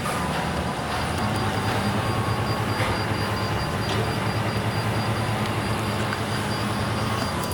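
Bus diesel engine idling with a steady low rumble and a faint high whine.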